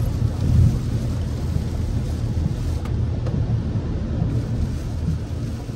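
Toyota RAV4 driving through heavy rain: a steady low rumble of tyres on the wet road and rain on the car, with no separate events.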